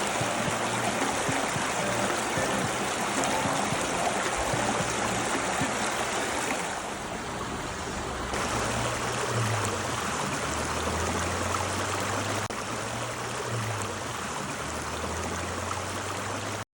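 Running water rushing steadily, its sound dipping for a stretch in the middle, with faint low sustained tones coming in during the second half.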